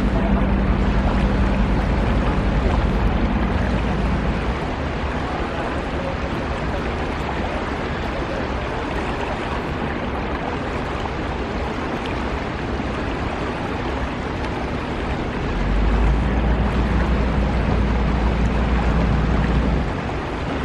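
Boat engine running with a steady low hum under a constant rush of wind and water. The engine hum is stronger for the first few seconds, eases, then swells again about two-thirds of the way through before dropping off near the end.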